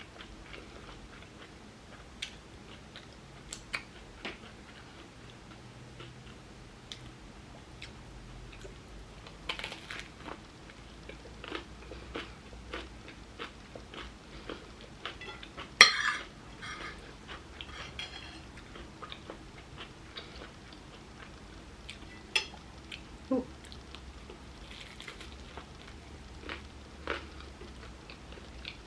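Close-up chewing and crunching of a sandwich on toasted bread, filled with chickpea salad and celery, with small crackles and mouth clicks throughout. A single louder, sharp sound comes about halfway through.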